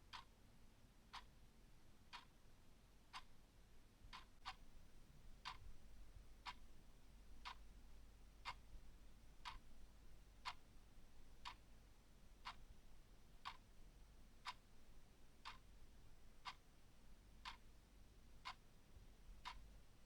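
Clock ticking faintly and steadily, about one crisp tick a second.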